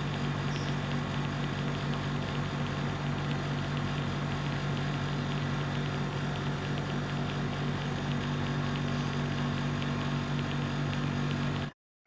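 A machine's motor running steadily with a low hum and a faint regular ticking; it cuts off suddenly near the end.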